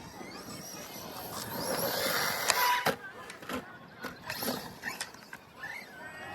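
Arrma Kraton 4S RC truck driving, its electric motor whining up and down in pitch, with two sharp knocks around the middle.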